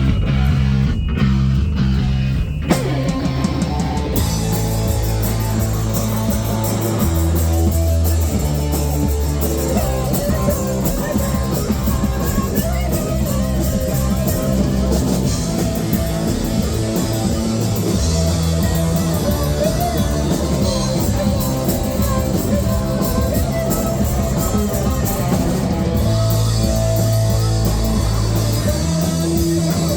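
Loud live rock band. A guitar part plays for the first few seconds, then drums, bass and distorted guitars come in, with cymbals crashing from about four seconds in.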